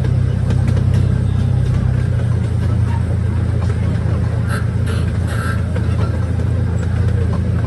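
Steady low rumble of a vehicle running, with the deepest part of the drone falling away about two seconds in.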